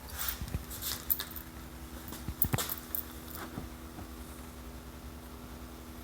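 A steady low hum from a switched-off 2020 Toyota Corolla, a sign that some part of the car is still running hours after shutoff. Several short clicks and rustles sound over it, loudest about a second in and again about two and a half seconds in.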